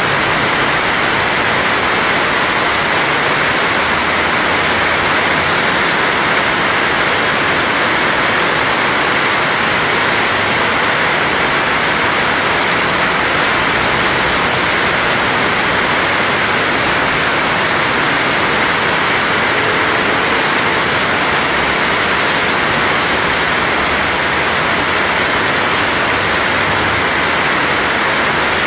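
Heavy tropical downpour: a loud, steady hiss of rain with no let-up.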